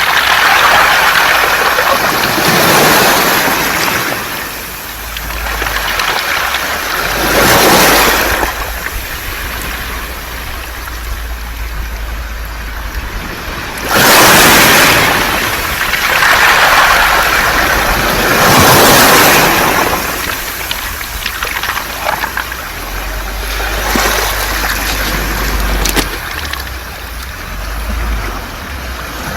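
Waves surging onto a beach of smooth round pebbles every few seconds, the stones rattling and clattering as the water washes over them and drains back.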